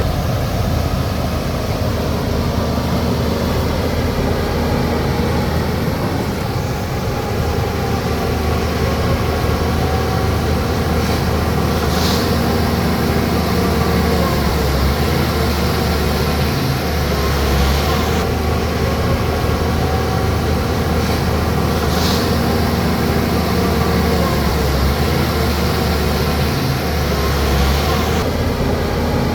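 Bulldozer's diesel engine running steadily as it works, with a deep drone that swells and eases slightly. Two brief higher-pitched sounds come about 12 and 22 seconds in.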